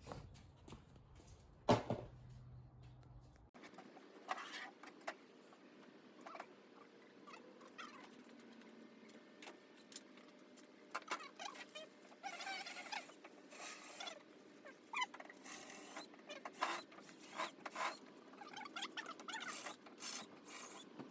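Faint, irregular small clicks and scrapes of something being handled, with a few longer scraping rubs in the second half.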